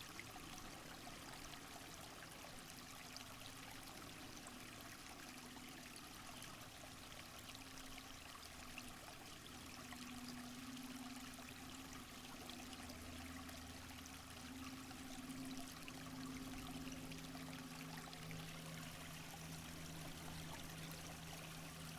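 Faint, steady rush of running water, like a forest stream. Under it sits a soft low hum of held tones that shifts pitch a few times in the second half.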